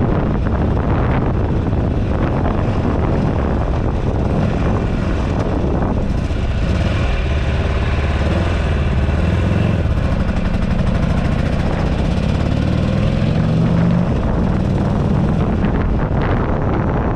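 A Buell Ulysses XB12XT's air-cooled V-twin engine running under way, with wind buffeting the handlebar-mounted camera microphone. The engine note climbs in pitch about midway through as the bike pulls.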